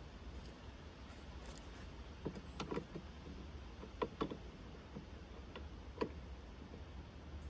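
A few irregular light knocks and clicks, two small clusters and then single ones, over a steady low rumble.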